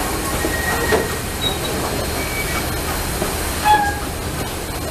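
A railroad train rolling on the track with a steady rumble, and brief high squeals from the wheels on the rails, the loudest about three and a half seconds in.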